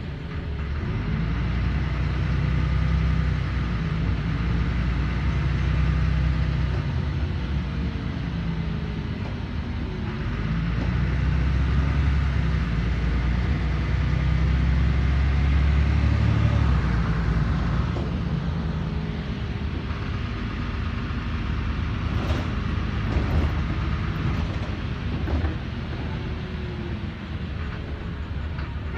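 LiAZ 5292.21 city bus driving, heard from inside the cabin: a steady low engine and road rumble that swells and eases, with a thin whine that rises and falls in pitch as the bus speeds up and slows. A few light knocks come about three-quarters of the way through.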